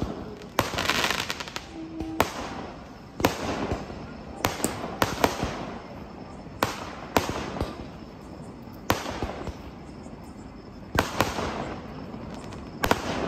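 Fireworks going off: about ten sharp bangs at uneven intervals, several followed by a spell of crackling.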